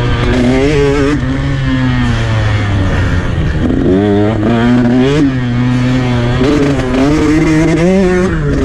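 KTM 150 SX two-stroke dirt bike engine running hard, its pitch holding steady, dropping about three seconds in, then rising and falling in quick rev sweeps as the throttle is worked.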